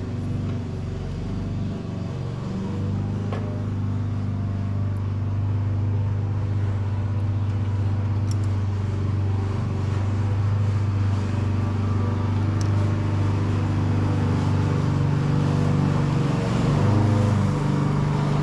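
Ford 8N tractor's four-cylinder flathead engine running steadily, its speed dipping and shifting briefly near the end. A few faint clicks sound over it.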